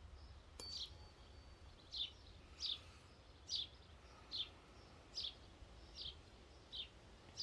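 A songbird repeating a single short, slightly falling chirp about every three-quarters of a second, over a low steady outdoor rumble.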